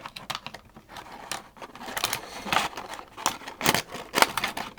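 Irregular clicks and light rattles of a Beyblade's metal fusion wheel being worked out of its plastic packaging tray, busier and louder in the second half.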